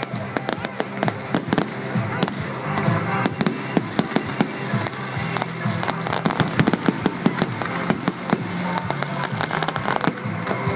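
Fireworks display going off in rapid, irregular bangs and crackles, with music playing loudly alongside.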